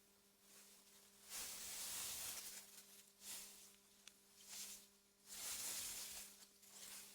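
Wind rustling through meadow grass in soft gusts that swell and fade every second or two, over a faint steady low hum.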